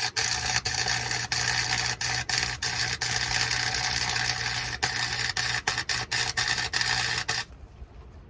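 Welding arc on a truck's exhaust pipe: a steady crackling hiss over a low electrical hum, starting abruptly and cutting off about seven seconds in as the weld bead ends.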